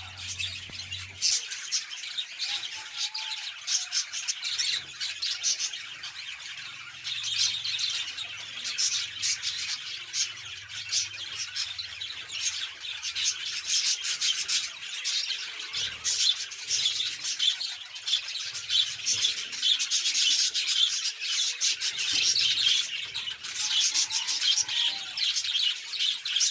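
Budgerigars chattering and warbling without pause, a busy high twittering crowded with many quick clicks.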